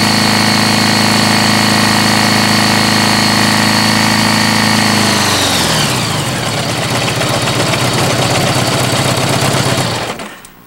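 Honda GL1100 Gold Wing flat-four engine held at steady high revs, then dropping to a lower, uneven running about five seconds in, and shutting off near the end. The engine's rod bearings are wiped out.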